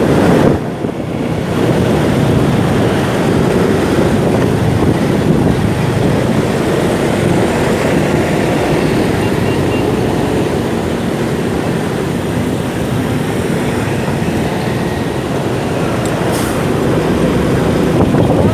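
Motorcycle engine running steadily under way, mixed with wind and road noise, briefly quieter about a second in.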